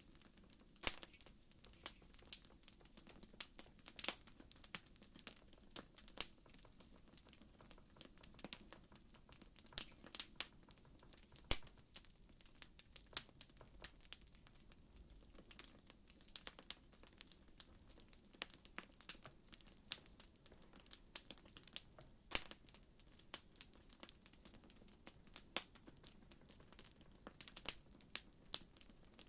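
Campfire crackling: irregular sharp pops and snaps, several a second, over a faint low rumble.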